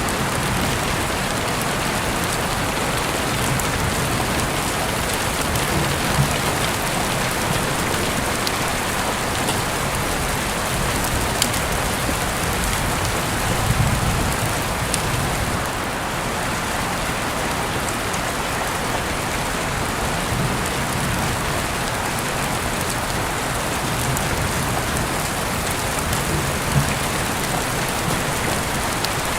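Steady rain, a dense even hiss, with a few sharp pops scattered through it and a brief low rumble about halfway.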